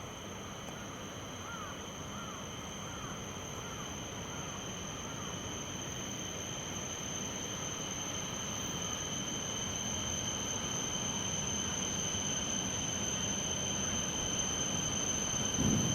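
A Shinkansen train approaching from a distance, its rushing noise slowly growing louder. A small bird chirps several times in the first few seconds.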